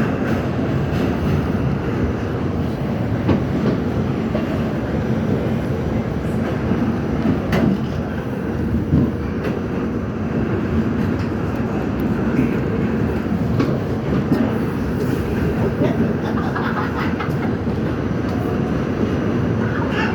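R68 subway train running along the track: a steady rumble of wheels on rail, with occasional sharp clicks as the wheels pass over rail joints.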